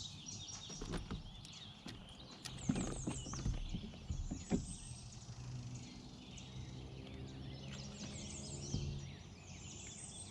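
Birds singing, repeated quick falling chirps over and over, with scattered knocks and clicks close by and a low steady hum through the middle.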